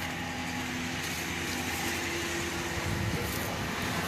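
Steady mechanical hum with a faint low tone over an even rushing background noise.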